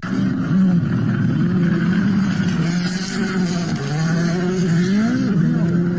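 Rally car engine running hard at high revs, its pitch wavering and dipping and then rising briefly about five seconds in.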